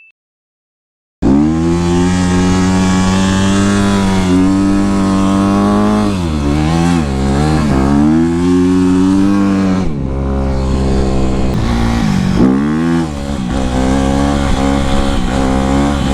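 Honda CRF250R dirt bike's single-cylinder four-stroke engine running under throttle as the bike is ridden, starting about a second in after a brief silence. The revs drop and climb again twice, once around the middle and again about two-thirds of the way through.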